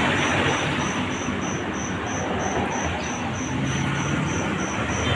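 Steady background noise with a high, thin chirp pulsing evenly about three times a second.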